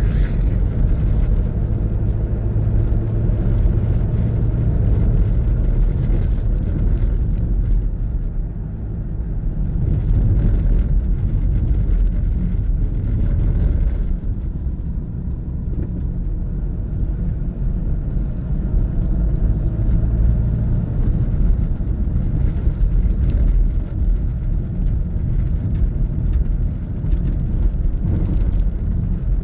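Car on the move: a steady low rumble of engine and road noise that dips slightly in level a couple of times.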